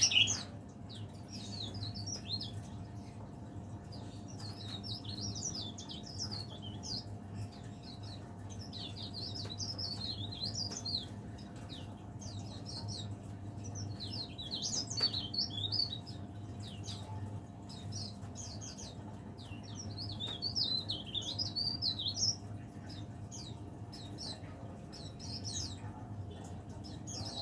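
Cikrak daun (burung pare-pare), a small leaf warbler, singing: bouts of rapid, high twittering phrases a few seconds apart, over a faint steady hum.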